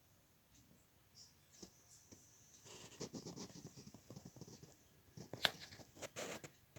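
Faint handling noise: a few seconds of scraping and rustling, then a handful of sharp clicks near the end.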